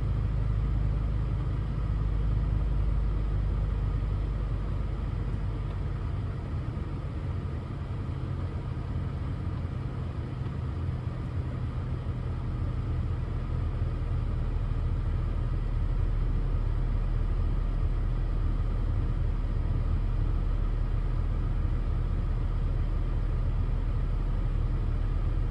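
Car engine idling steadily soon after a cold start. It eases off slightly for a few seconds about a third of the way in, then settles back.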